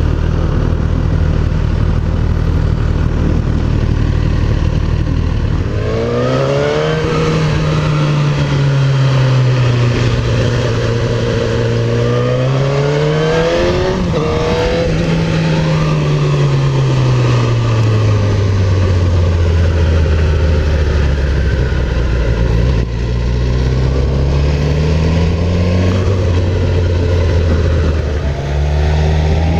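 Sport motorcycle engine heard while riding: it holds a steady note, then revs up and eases off several times, with a long slow drop in pitch midway and another climb near the end.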